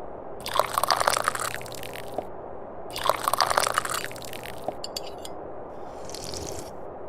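Tea being slurped from a cup: two long, loud slurps of about two seconds each, then shorter, fainter sips near the end.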